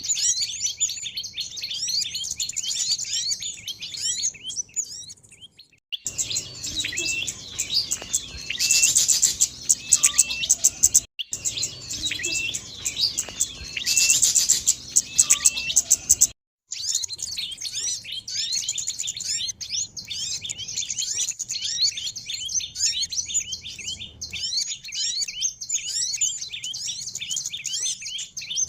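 Dense, rapid twittering of many small birds chirping over one another, high-pitched, as used in a bird-lure recording. The sound cuts out briefly about 6, 11 and 16 seconds in, where spliced sections change; the middle section is louder, with sharp clicky calls.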